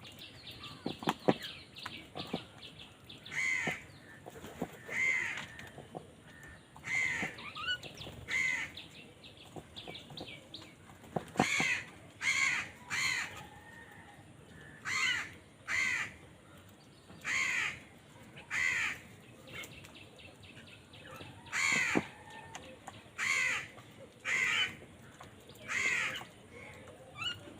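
Crows cawing, a long series of short harsh caws in runs of two or three, roughly one caw a second. A few sharp taps or knocks come in between, mostly in the first couple of seconds.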